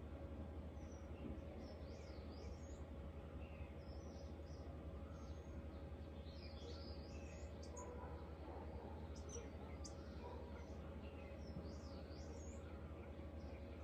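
Birds chirping and calling: short high chirps and quick twittering phrases come and go throughout, over a steady low hum.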